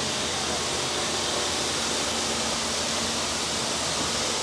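Extrusion blow moulding machine running on the factory floor: a steady, even hiss with a faint low hum underneath.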